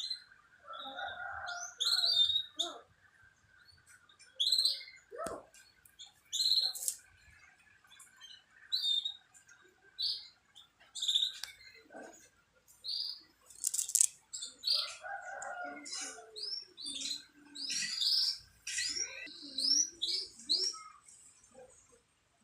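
Canaries being paired for breeding, chirping in short, high calls with brief gaps, coming faster and closer together in the second half.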